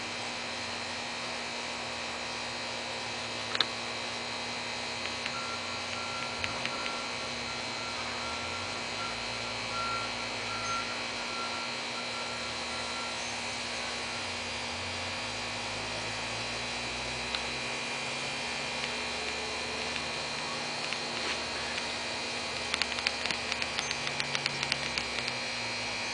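Steady background hum and hiss with a few faint fixed tones, and a run of small clicks near the end.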